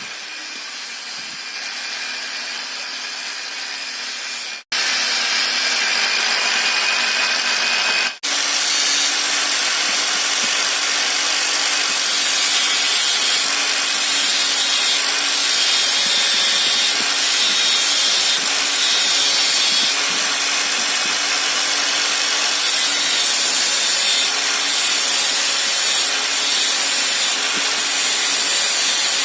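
Bench-mounted angle grinder running with a wood-polishing wheel, grinding and shaping the end of a piece of wood. A steady motor hum sits under a loud, rasping grinding noise that swells and eases as the wood is pressed to the wheel, with two abrupt cuts in the sound near the start.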